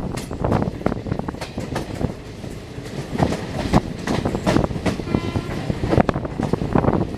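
Train wheels clattering on the track, with a quick run of irregular knocks. About five seconds in there is a brief high-pitched tone lasting about half a second.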